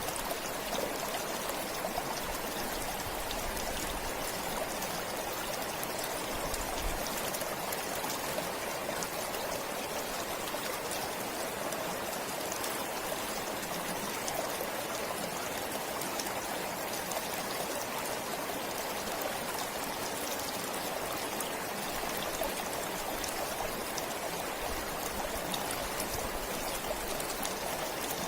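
Stream flowing steadily: an even rush of water with many small splashes.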